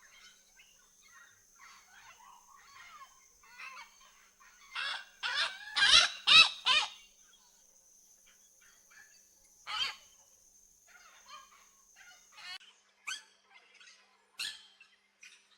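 Parrots squawking: a loud run of several harsh calls about five to seven seconds in, then single squawks further on. A faint steady high tone sounds underneath and stops near the end.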